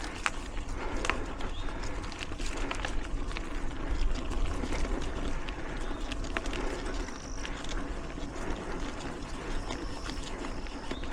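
Mountain bike rolling along a dirt singletrack trail: tyre noise with frequent clicks and rattles from the bike over the ground. Two brief thin high tones sound about seven and ten seconds in.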